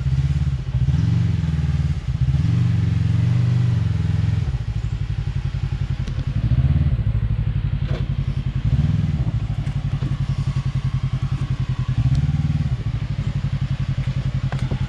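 Side-by-side UTV engine running low and repeatedly revving up in short throttle bursts as it works over rock, with a brief knock about halfway through.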